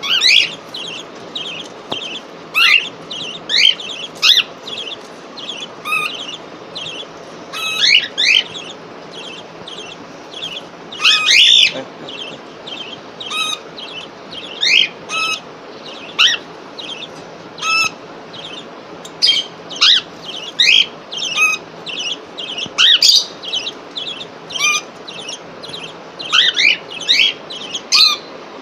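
Pet cockatiels and budgerigars chirping: a steady run of short, quick upward-sweeping chirps, one to three a second, with a denser cluster of calls about eleven seconds in.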